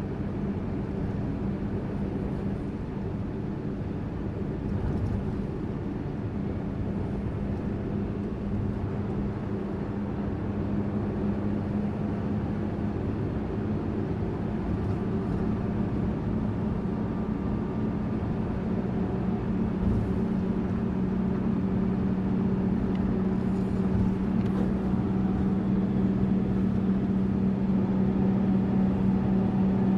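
Tourist bus running along with a steady engine drone and road noise; the engine tone grows stronger in the second half, with a couple of faint knocks.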